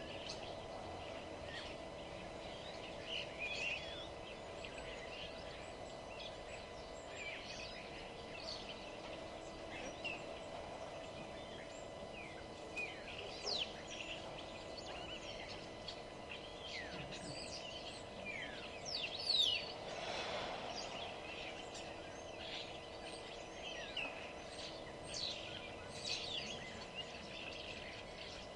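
Several small songbirds chirping and singing in short, quick notes and trills, scattered through the whole stretch with a louder burst of calls about two-thirds of the way in, over a steady low background hum.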